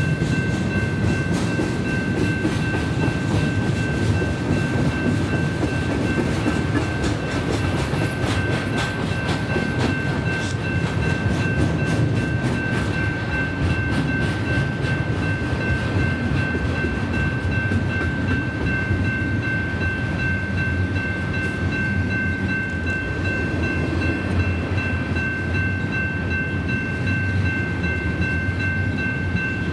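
Double-stack intermodal train of container-laden well cars rolling past: a steady rumble of wheels on rail with rapid clicking as the wheels cross rail joints. A steady high-pitched ringing tone sounds over it throughout.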